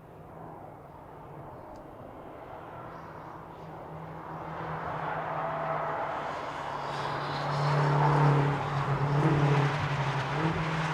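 Car engine running with a steady low note, growing louder over several seconds as it draws closer and loudest about eight seconds in.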